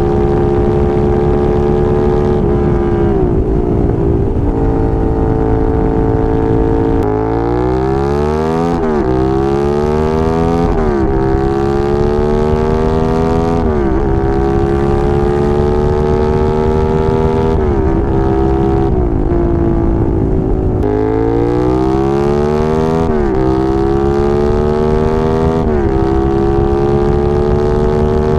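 Suzuki SV650S 90-degree V-twin engine accelerating through the gears while riding, the pitch climbing and dropping back at each upshift, with a steady rush of wind. It pulls hard from low revs about seven seconds in with three quick upshifts, eases off and slows, then accelerates through the gears again about three quarters of the way through.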